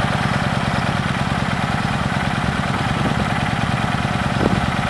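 Kawasaki Vulcan Classic XL's V-twin engine idling steadily with an even, fast pulsing beat.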